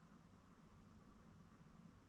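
Near silence: a faint, steady hiss over a low rumble.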